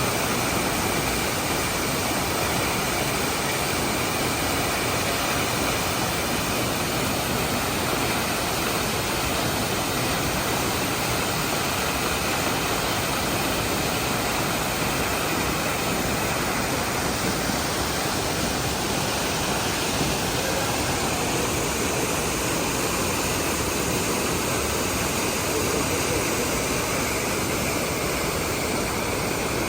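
Düden Waterfalls rushing steadily, a loud, even water noise that holds constant throughout.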